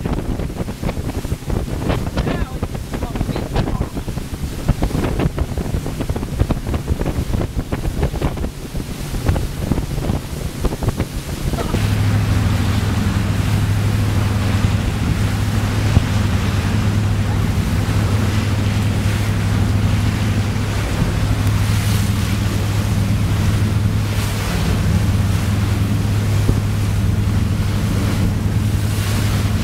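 Carver 3207 cruiser under way, wind buffeting the microphone with the rush of water. About twelve seconds in, a steady low engine drone comes in and stays, louder than the wind.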